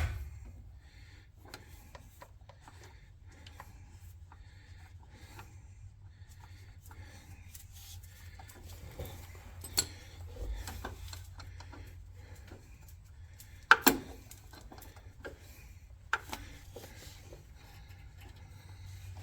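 Faint rubbing and small metal clicks of hand work on a console shifter mechanism, with a few sharper clicks, the loudest about two-thirds through, over a steady low hum.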